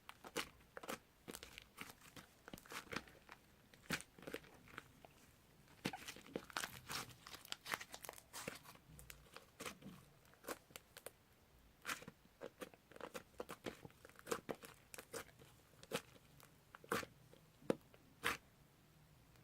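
Slime being squeezed, stretched and folded by hand, giving irregular small pops, clicks and crackles.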